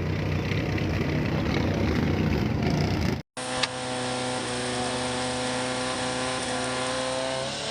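Off-road vehicle engine running rough and loud, then, after an abrupt cut about three seconds in, an engine running at a steady speed.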